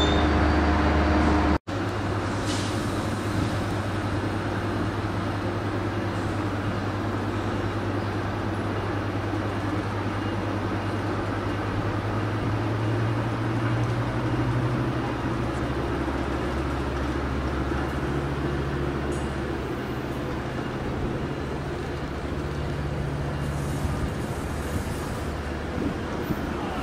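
Metrolink commuter train rolling slowly past. Its diesel locomotive engine gives a steady low drone that rises in pitch a few times over a constant rumble.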